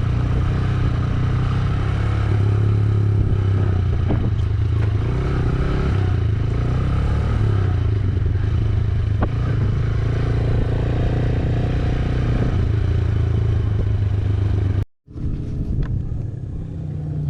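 Yamaha YBR125G motorcycle's single-cylinder 125 cc four-stroke engine running steadily under way. The sound cuts out completely for a moment about fifteen seconds in, then comes back quieter.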